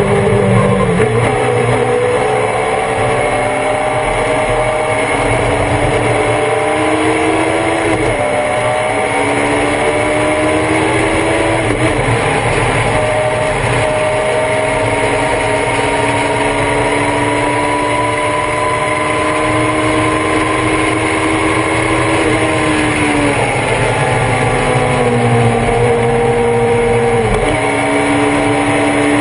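On-board sound of a Thunder Roadster race car's engine at racing speed. Its pitch climbs with two upshifts in the first twelve seconds, holds high, then drops off around twenty-two seconds as the car slows, and picks up again near the end.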